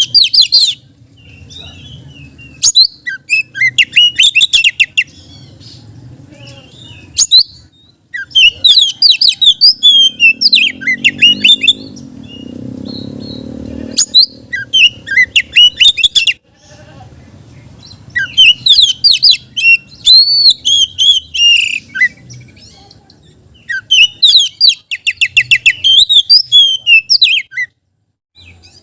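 Oriental magpie-robin (kacer) singing loud bursts of rapid, varied whistles and trills. About seven phrases are separated by pauses of one to two seconds, over a faint low hum.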